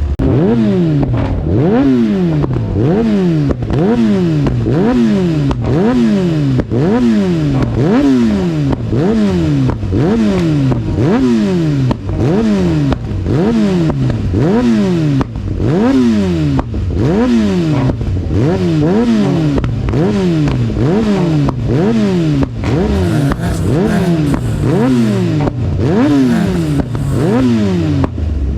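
Kawasaki Ninja ZX-10R inline-four engine revved over and over, about one blip a second, each rising quickly and falling back, with crackling exhaust backfires on the overrun.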